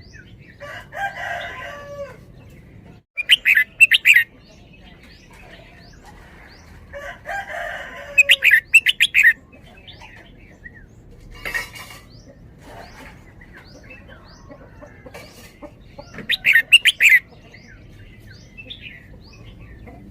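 Caged red-whiskered bulbul singing. Three loud, quick phrases come several seconds apart, each of the first two led in by softer warbling. A short rustle comes about halfway through.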